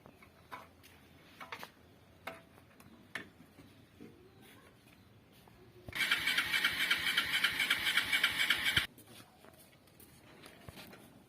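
A small motor runs loudly for about three seconds with a rapid pulsing buzz, then cuts off suddenly. Scattered light clicks and knocks come before it.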